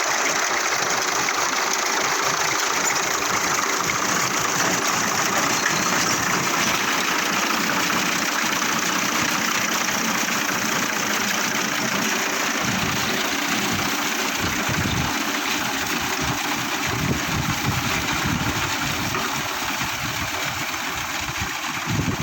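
Tractor running under load while driving a wheat reaper: a steady mechanical clatter and hiss, with the engine's low rumble growing stronger about halfway through.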